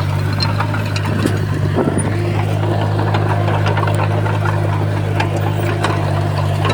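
Heavy earthmoving machine's diesel engine running steadily at a constant low pitch, with scattered light metallic clanks and clicks over it.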